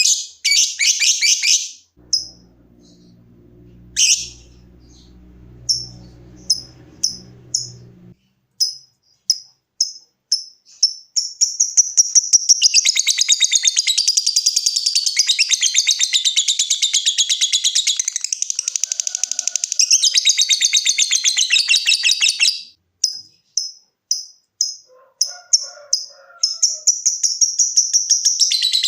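Lovebird singing: a run of short, sharp ticking chirps (ngetik) that speeds up and runs into a long, rapid chattering trill (ngekek) of about ten seconds. Then more ticking chirps, and another trill near the end.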